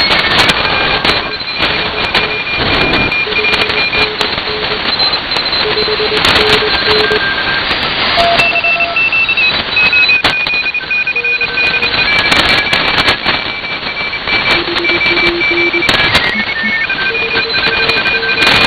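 Shortwave receiver audio from a WebSDR: steady band static with crackles, and several Morse code signals keying on and off at once, each beeping at its own pitch.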